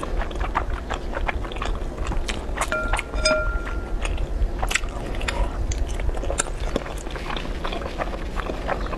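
Close-miked chewing of thick, chewy sweet-potato starch noodles (fen haozi) in chili-oil sauce, with many irregular wet mouth clicks and smacks.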